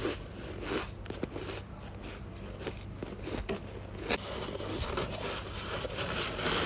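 Soft freezer frost being bitten and chewed close to the mic: a few separate crisp crunching bites, then denser crunching in the last couple of seconds.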